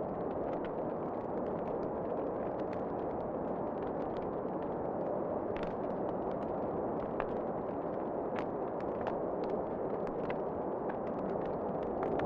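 Wood fire crackling in a fireplace: a steady rushing roar with sharp pops and snaps scattered irregularly throughout.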